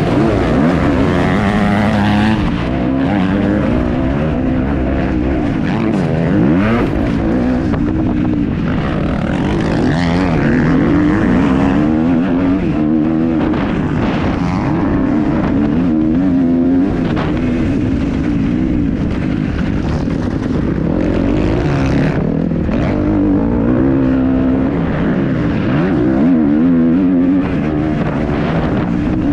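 Kawasaki KX250F single-cylinder four-stroke motocross engine revving hard and falling off again and again as the rider accelerates, shifts and brakes around the track.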